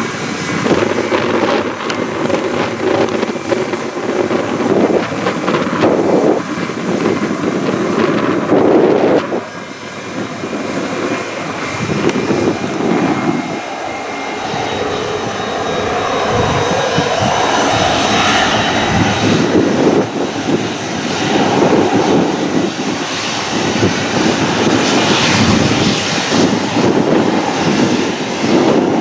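Jet airliner engines running loud, with a rough, rushing noise that dips briefly, then grows louder and brighter through the middle.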